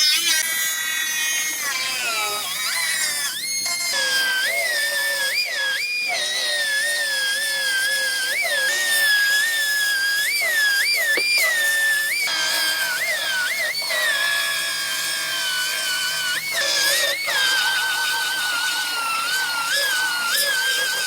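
High-pitched whine of a power tool working metal, its speed swooping up and sagging back again and again as it bites, with background music.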